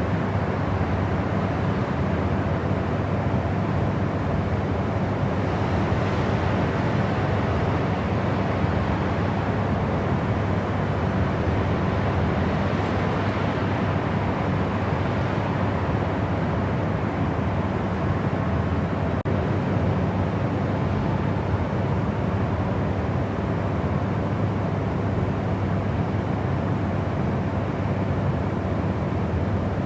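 Steady white noise: a constant deep rushing sound with little high end and a faint steady hum under it, unchanging throughout.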